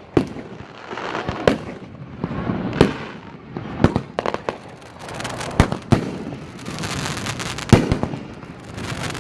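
Asian Sensation aerial firework going off: a run of sharp bangs, about one every second or so, with crackling between them.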